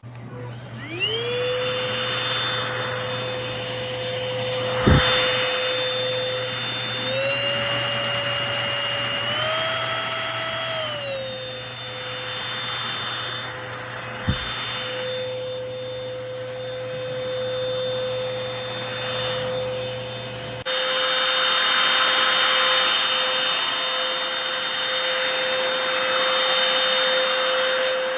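Cordless stick vacuum's motor spinning up about a second in, then running with a steady whine. Its pitch steps up twice, near 7 and 9.5 seconds, as the suction setting is raised, and drops back near 11 seconds. Two sharp knocks come near 5 and 14 seconds.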